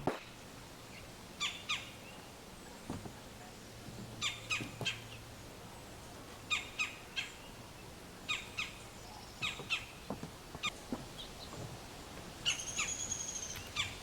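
Bird calls: short notes in clusters of two to four, repeating every second or two, with one longer, drawn-out call near the end.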